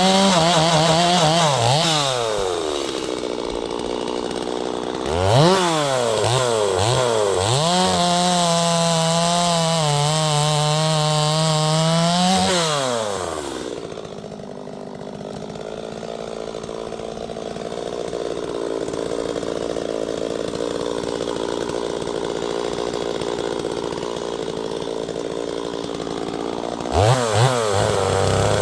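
Neotec NS846 45.4cc two-stroke chainsaw, a Stihl MS 250 clone, cutting cherry wood at full throttle. It drops back to idle, is revved up and cuts again for several seconds, then idles for about fourteen seconds before revving up again near the end.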